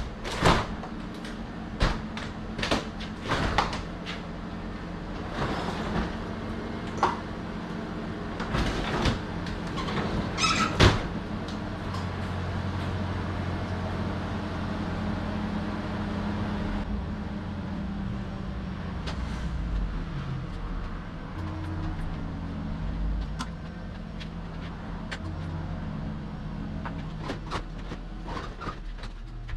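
Yamaha SR400's air-cooled single-cylinder four-stroke engine running, its pitch stepping up and down a few times in the second half. A series of sharp clicks and knocks sounds over the first ten seconds or so.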